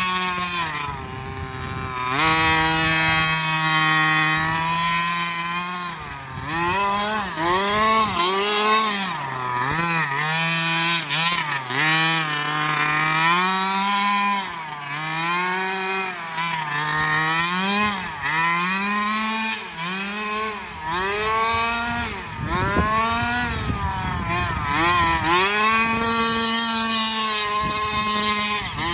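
Small 30cc two-stroke gas engine of a 1/5-scale Redcat Rampage XR rally car with a JetPro tuned pipe. It holds a steady pitch for the first few seconds, then revs up and down over and over as the throttle is worked.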